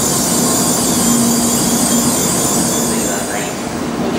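N700A Shinkansen train moving along the platform: a loud, steady rush of running noise with a low hum. It eases off about three and a half seconds in.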